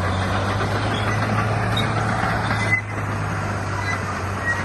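Heavy diesel engine of earthmoving machinery running steadily under a hum, with a wide noisy rumble over it; the sound drops a little about three seconds in.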